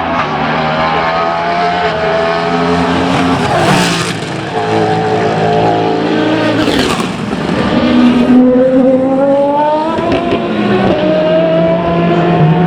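Prototype and GT race cars accelerating past on the Le Mans circuit. The engine pitch climbs, drops briefly at gear changes, and climbs again.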